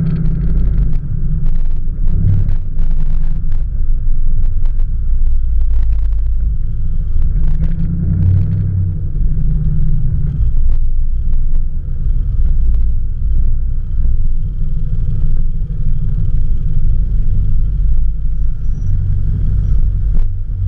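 Dodge Charger SRT's V8 running through an aftermarket 'Zoomers' exhaust: a deep, steady rumble that swells briefly about two seconds in and again around eight seconds. A scatter of short clicks runs through the first six seconds.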